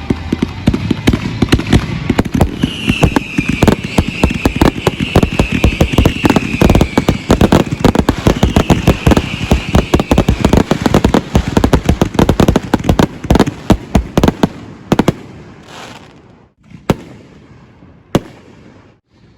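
Fireworks display going off in a dense, rapid barrage of bangs and crackles, thinning out after about fifteen seconds to two or three single bangs.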